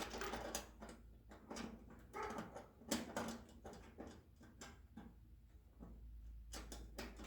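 Small metal hardware being handled and fitted by hand: a nut being started onto a bolt through a toaster oven's sheet-metal shell. Light, irregular clicks, taps and scrapes, with a couple of short pitched squeaks a few seconds in.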